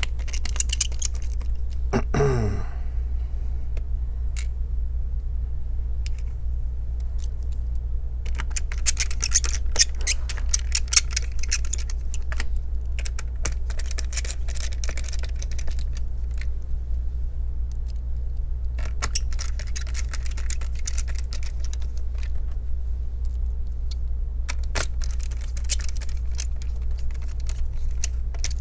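Scattered clicks and light metallic rattling of a screwdriver and small screws as a laptop is screwed back together, over a steady low hum. About two seconds in, a short sound falls sharply in pitch.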